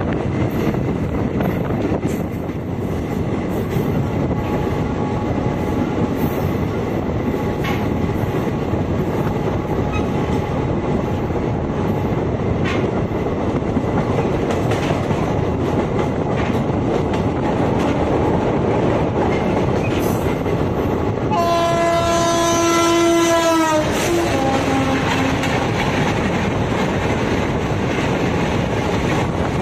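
DEMU train running at speed: a steady rumble with regular clicks of the wheels over rail joints, with wind on the microphone at the open door. About 21 seconds in, an oncoming train's horn sounds for about two and a half seconds and drops in pitch as it passes. That train's coaches then rush by on the next track.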